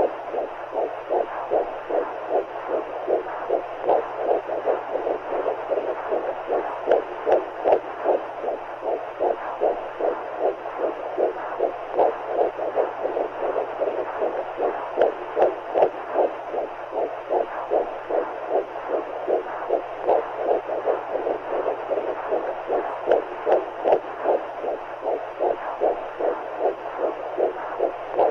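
Womb-sound white noise: rapid, regular muffled heartbeat pulses over a steady whooshing rush of fluid, meant to soothe a newborn to sleep.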